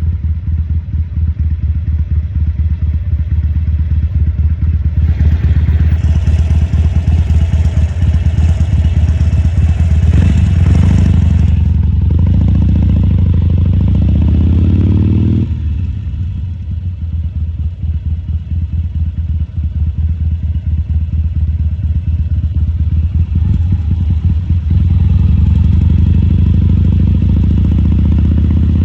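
Harley-Davidson Sportster XL1200C's 1200 cc V-twin engine running while the bike is ridden, its note rising under throttle in the first half. It drops back sharply about halfway through, then picks up again near the end.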